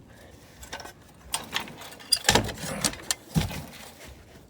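Irregular knocks, clatter and rattling with rustling, from gear being handled; the loudest knocks come about two seconds in and again about three and a half seconds in.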